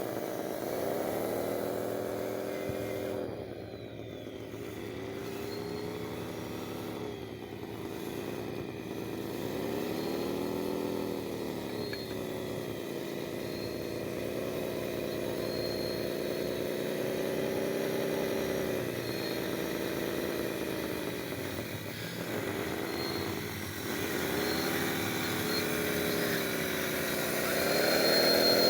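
Small electric motor of a radio-controlled construction model whining steadily, its pitch dropping and rising again several times as it is throttled.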